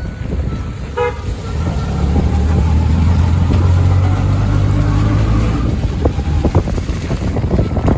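Road vehicle sounds: a short horn toot about a second in, then a motor vehicle's engine running louder for a few seconds, over steady wind and road noise.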